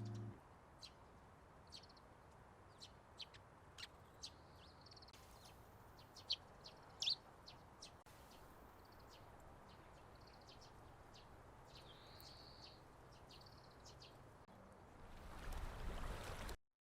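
Small birds chirping and trilling, many short high calls scattered over a faint steady hiss. Near the end a rush of noise swells up and then cuts off suddenly.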